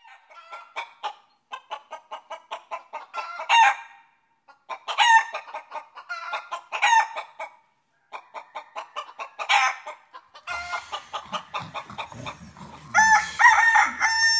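Chickens clucking in quick runs, with roosters crowing several times and a long crow near the end: a farmyard morning wake-up.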